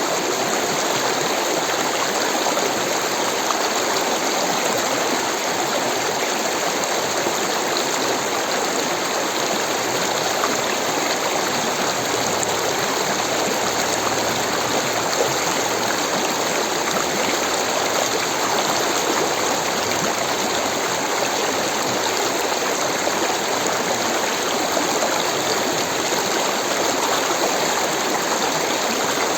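Rushing water of a stream, a steady, even rush that does not change.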